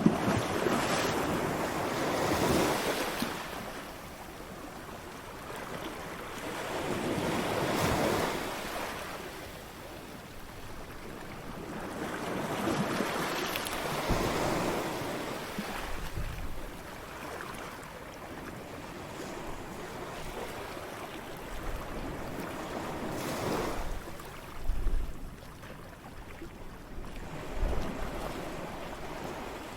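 Ocean waves breaking on a shore: the surf swells and falls away in about four slow surges. Two brief low thumps come near the end.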